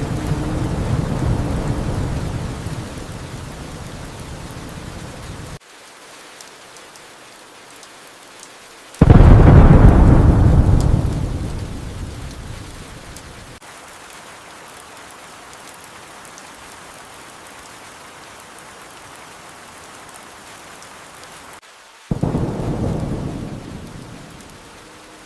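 Steady rain with thunder: a rumble fading away over the first few seconds, a sudden loud thunderclap about nine seconds in that rolls off over several seconds, and another clap near the end.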